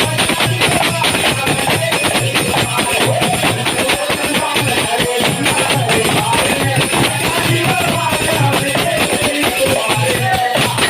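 Live devotional kirtan music: fast, steady hand-drum and jingling percussion with a melody line over it.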